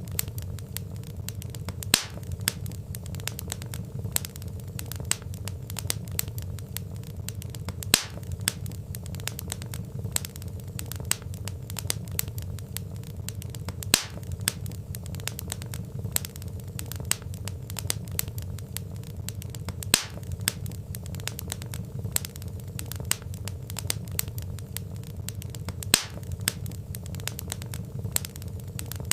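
Wood fire crackling: a steady low rumble of burning logs with constant small crackles and a louder pop about every six seconds.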